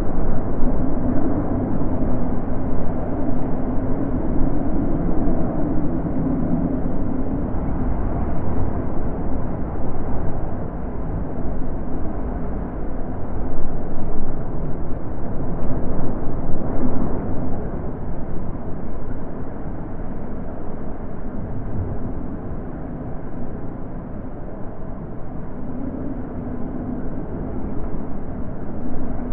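Wind blowing steadily, swelling and easing in gusts, with a low moaning tone in it at times.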